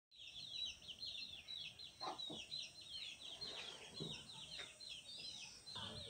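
Small birds chirping rapidly and continuously in high, quick notes, with a few short lower calls about two, four and six seconds in.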